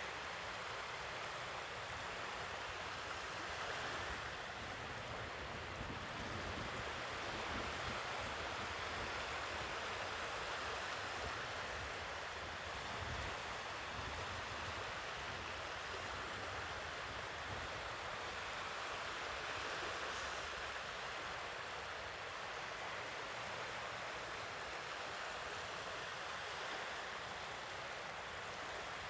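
Sea waves washing on the shore in a continuous surf, a steady hiss with only slight rises and falls in level.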